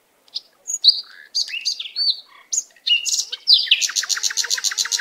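Songbird singing: a string of short, varied high chirps, then a fast even trill of about eight notes a second. A held musical tone comes in underneath about four seconds in.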